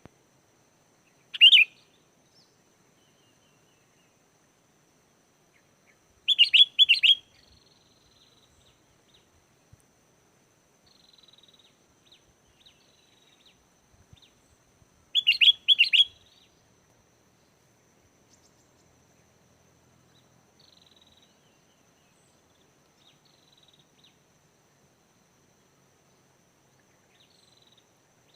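Sooty-headed bulbul song: short, loud phrases of a few quick notes that come every several seconds, with fainter short calls between them.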